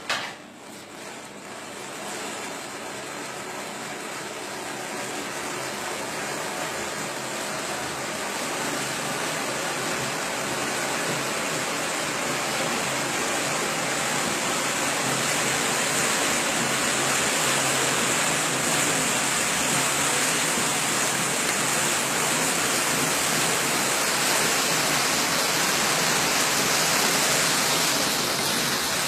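A heap of matches catching fire: a sharp flare at the start, then a dense hissing as the match heads ignite one after another. The hiss grows louder over about fifteen seconds, holds, and falls away near the end.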